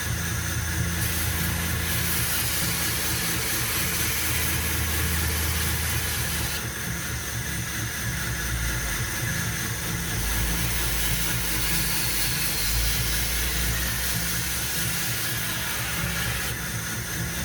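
Belt grinder running steadily while a knife blade's edge is ground on the belt, in two long passes that each add a brighter hiss.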